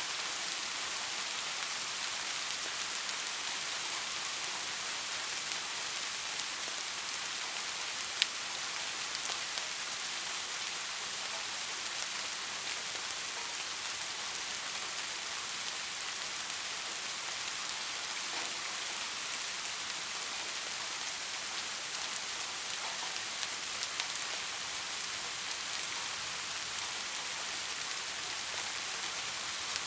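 Steady rain falling: a dense, even hiss of drops with scattered sharper drop ticks, one louder tick about eight seconds in.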